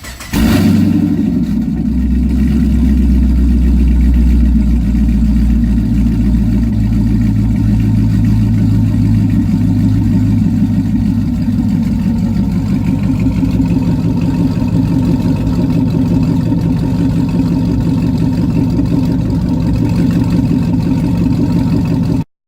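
2009 Pontiac G8 GT's 6.0-litre V8 running through Kooks long-tube headers, a Borla cat-back exhaust and QTP electric cut-outs, a deep, steady exhaust note with no sharp revs. It starts abruptly just after the beginning and cuts off suddenly shortly before the end.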